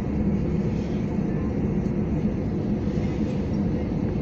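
Steady low rumble of cabin noise inside an Airbus A321 on the ground after landing.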